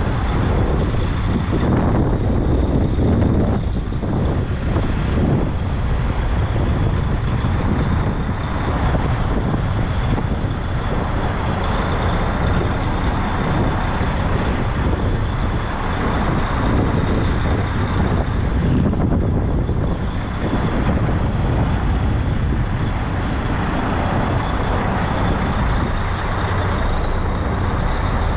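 Semi truck's diesel engine running steadily with a low rumble, a steady high whine over it.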